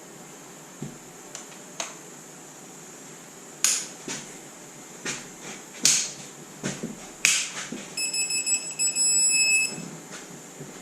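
Sharp clicks and knocks of a torque wrench being fitted and pulled on cylinder head bolts, then an electronic beeping in a fast stutter for about two seconds near the end: a digital torque wrench signalling that the set torque or angle has been reached.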